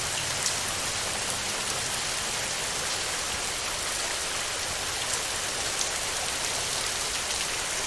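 Heavy rain falling steadily on a tin roof, an even hiss with a few sharper drop hits now and then.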